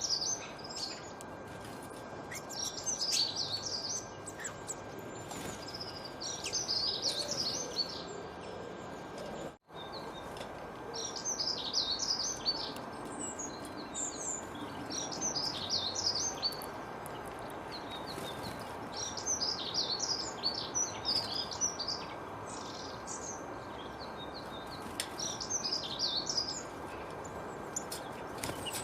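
A songbird singing short phrases of quick, high chirping notes, repeated every few seconds over a steady background hiss. The sound cuts out for an instant about a third of the way in.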